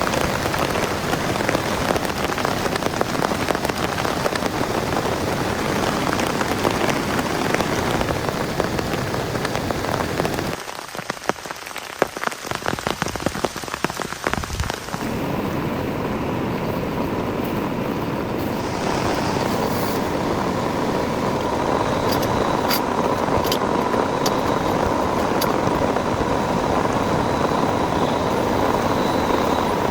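Heavy rain falling steadily. About a third of the way in it drops away suddenly to a quieter stretch of scattered drips, then a steady rush returns with a faint steady hum under it.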